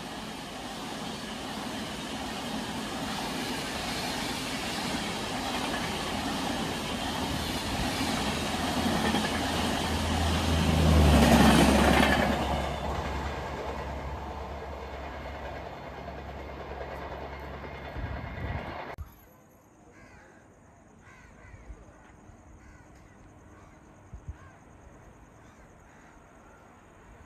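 Express train passing at speed: a rising rush of wheels on rail that peaks about eleven seconds in, with a steady low hum, then fades. It cuts off suddenly about nineteen seconds in, leaving quiet background with a few faint ticks.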